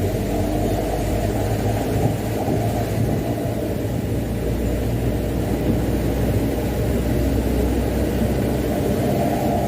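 Mitsubishi Canter dump truck's diesel engine running steadily with road rumble while driving.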